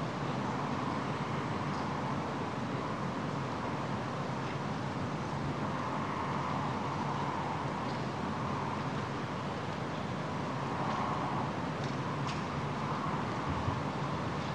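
Steady vehicle rumble and hiss at an even level, with a few faint ticks.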